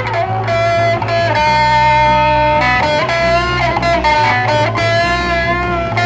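Rock music: an electric guitar plays sustained, slightly bending lead notes over a steady bass line, with no vocals.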